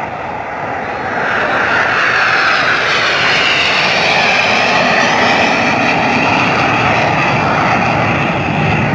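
Jet aircraft flying past in an air show: a loud rushing engine noise that swells about a second in and holds, its tone slowly shifting as the aircraft passes.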